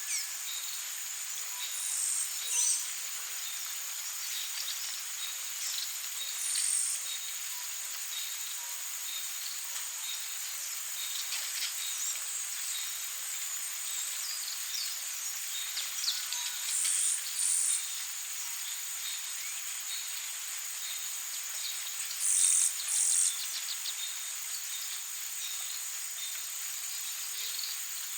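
Rainforest insects and birds: a steady high-pitched insect drone with scattered bird chirps, broken several times by short, louder high calls that mostly come in pairs.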